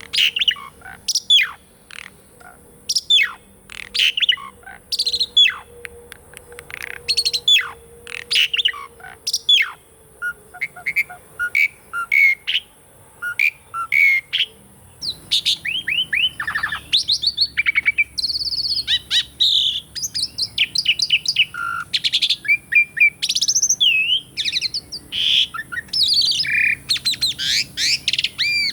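Asian pied starling singing: at first a string of sharp whistled calls, each sweeping steeply downward, spaced about a second apart. From about halfway it breaks into a dense, varied run of chattering and warbling notes.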